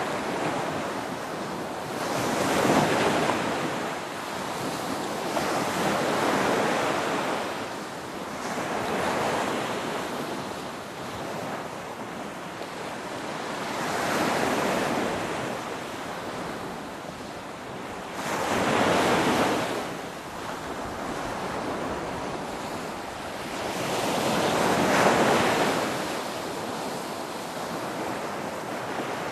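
Ocean surf: waves breaking and washing in one after another, rising and falling in about six swells, every three to six seconds.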